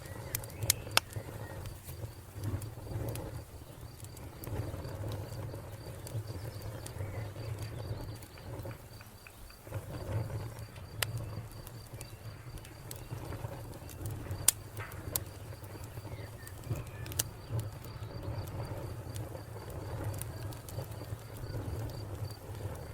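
Wood fire crackling, with scattered sharp pops over a steady low rumble of the flames. A cricket chirps in a fast, even series of high pulses behind it.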